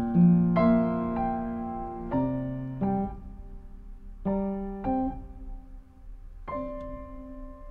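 Solo piano playing slow, separate notes and chords that ring out and fade, thinning to a few sparse notes in the second half.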